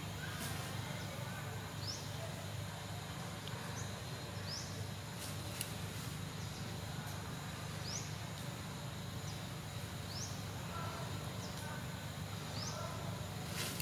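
Forest ambience: a bird's short rising chirps repeated every second or two, over a steady low hum, with a few faint clicks.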